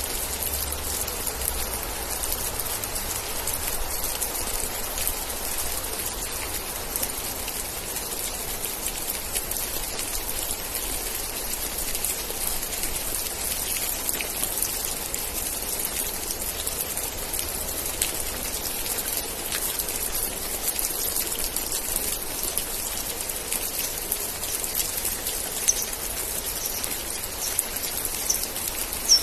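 Steady rain with many individual drops pattering. A few short, high chirps come in near the end.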